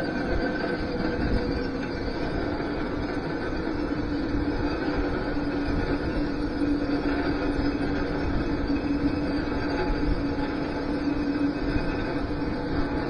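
Metal-cutting CNC machine running on steel: a steady grinding noise with a held squealing tone that grows stronger a few seconds in.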